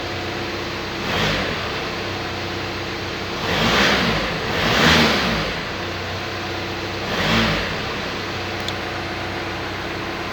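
Car engine idling steadily and blipped by the throttle four times, each rev rising and falling back to idle within about a second; the third blip, about halfway through, is the loudest.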